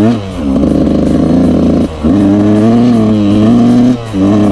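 Yamaha YZ125 two-stroke dirt bike engine running under throttle. The note rises sharply at the start, holds steady, and drops off briefly about every two seconds.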